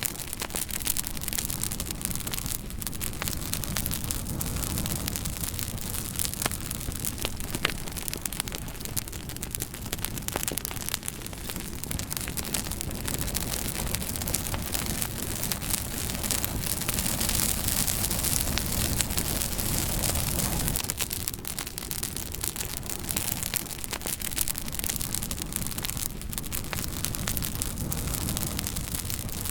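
Wood fire crackling: a steady hiss dotted with frequent small pops and snaps.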